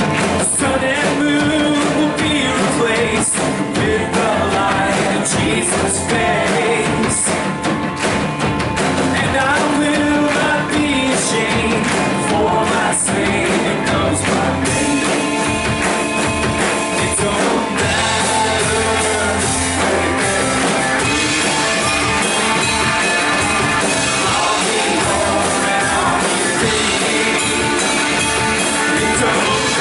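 Live worship band playing a rock-style song, with singing.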